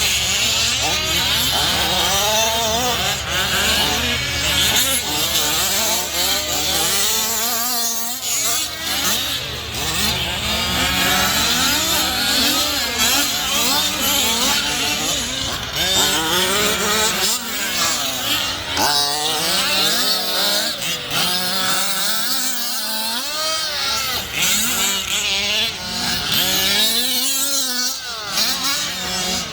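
Several gas-powered large-scale RC cars racing, among them Losi 5IVE-T trucks. Their small two-stroke engines rev up and down and overlap one another, over a steady low hum.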